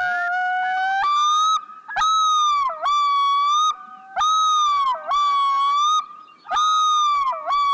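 White-billed divers (yellow-billed loons) giving their long yodel: loud, drawn-out wailing phrases repeated about once a second, each ending in a sharp downward dip in pitch. The recording is played back over a hall's loudspeakers.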